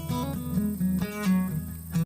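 Acoustic guitar playing a short instrumental passage without singing: single picked notes moving between pitches, with chord strums about a second and a quarter in and again at the end.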